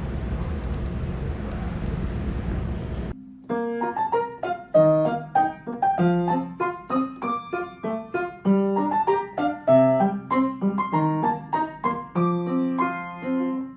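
A steady rumbling noise cuts off abruptly about three seconds in. Solo piano music then plays a melody of separate, clearly struck notes.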